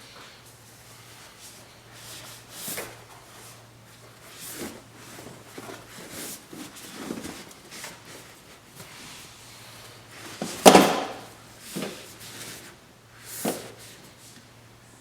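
Knocks and clunks of a Tesla Model 3's rear seat cushion and plastic trim being unlatched and handled, with one louder thump about ten and a half seconds in and a couple more near the end.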